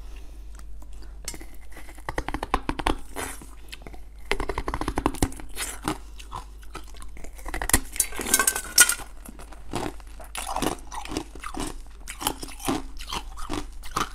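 Close-miked biting and chewing of a small frozen sweet: many crisp crunches and crackles, busiest about four seconds in and again around eight seconds.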